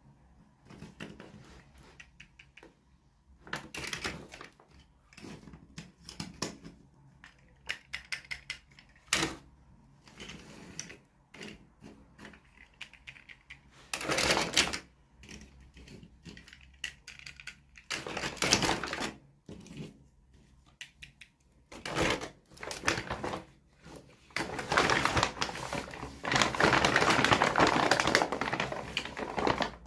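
Hands unboxing small toys: irregular clicks and taps of small plastic parts and packaging, with short rustles. Near the end comes a longer stretch of crinkling.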